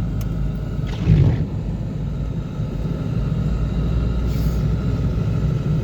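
A car moving along a road: a steady low rumble of engine and road noise, with a brief louder bump about a second in.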